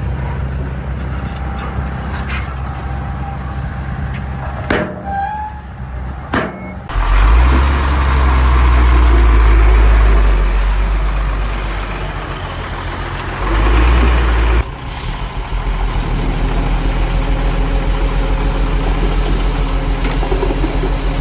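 Heavy diesel earthmoving machinery running: bulldozer and dump-truck engines. A very loud, deep rumble swells in about seven seconds in and cuts off suddenly near fifteen seconds, giving way to a steady, throbbing engine.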